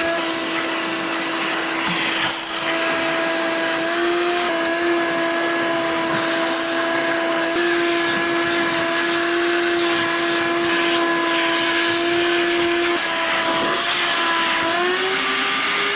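Ridgid 16-gallon NXT wet/dry shop vacuum running steadily with a loud motor whine over a rushing hiss. The whine shifts slightly in pitch a few times and rises near the end.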